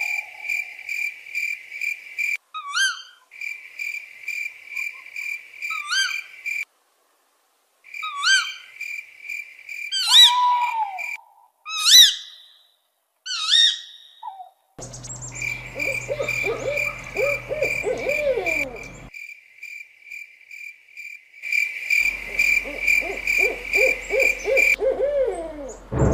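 Night-time nature sound effects: a steady, pulsing, high insect trill with rising whistled bird calls, then owl-like hooting calls repeated several times a second over a low hum. The sounds stop and start abruptly several times, as edited-in effects do.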